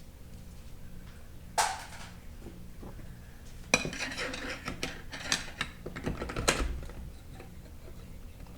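Metal parts of a 4L60E automatic transmission clinking and knocking as they are handled and pulled apart during a teardown: one knock about a second and a half in, then a run of clinks and knocks from about four to seven seconds in.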